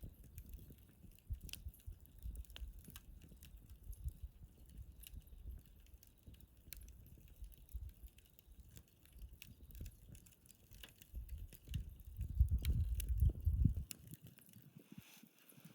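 Wood fire burning in a fire stand, with scattered sharp crackles and pops from the burning wood over a low rumble. The rumble swells near the end, then drops away abruptly.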